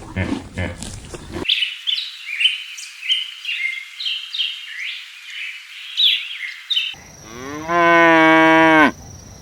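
A cow mooing once, a long call of over a second near the end. Before it comes a run of short, high chirps that fall in pitch.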